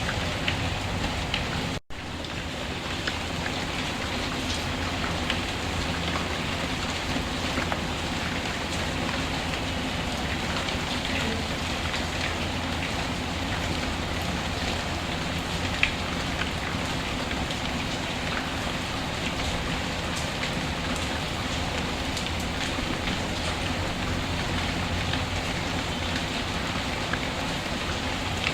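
Steady rain falling, with small scattered crackles from a fireplace fire mixed in. The sound drops out for an instant about two seconds in.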